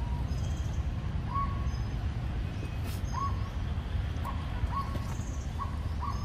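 A bird's short whistled calls at one pitch, each rising then held briefly, repeating every second or two, over a steady low rumble.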